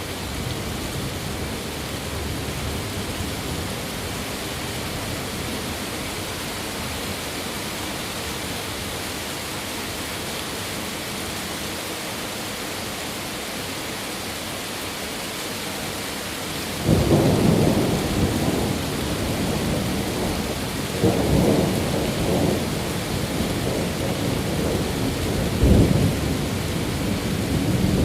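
Steady heavy rain hissing, then about two thirds of the way in a roll of thunder breaks in suddenly and rumbles on, swelling again twice before the end.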